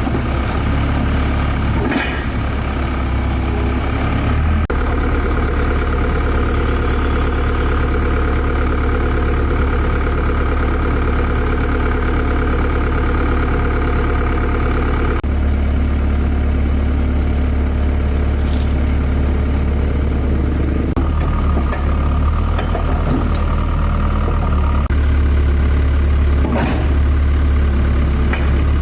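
Heavy engine idling steadily, with a few sharp knocks; the hum shifts abruptly a few times.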